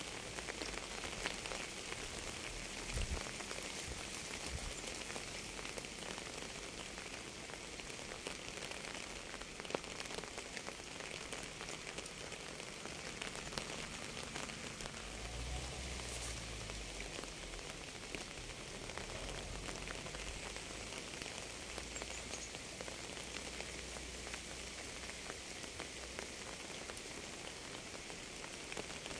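Steady rain falling, a dense hiss of countless fine drop ticks. A faint low rumble swells and fades near the middle.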